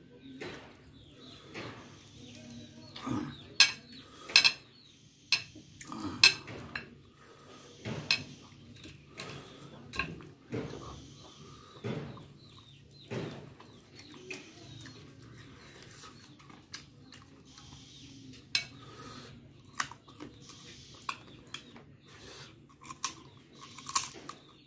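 Close-up eating sounds: chewing and crunching on a curried chicken head held in the hand, with irregular sharp cracks, the loudest in the first few seconds.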